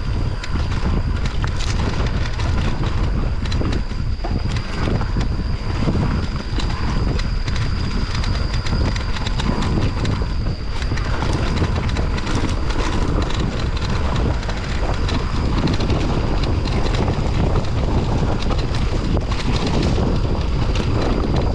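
Mountain bike rattling down a rough, rutted dirt trail: steady rumble of tyres over rough ground, with many sharp clicks and knocks from the bike and wind buffeting the microphone.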